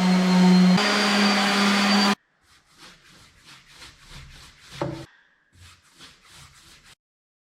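An electric power-tool motor runs steadily with a strong hum and whine, then cuts off abruptly about two seconds in. Faint scattered taps and rubbing of wood follow.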